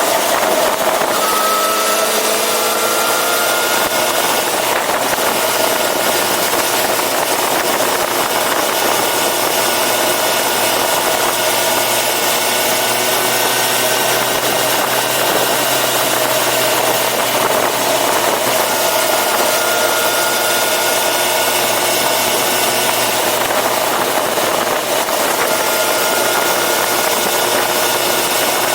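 Yamaha FZ6R motorcycle's inline-four engine running under way, its pitch climbing slowly a few times as the bike accelerates, over a steady rush of wind.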